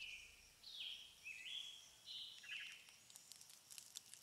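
Faint birdsong: a series of about six short whistled notes, some stepping down in pitch, with faint high clicks near the end.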